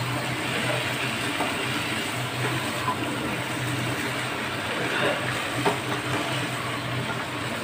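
Raw jackfruit and potatoes frying in a thick spice paste in a kadai, a steady sizzle with a wooden spatula stirring and scraping the pan now and then, over a steady low hum. The masala is being slow-fried down (kasha).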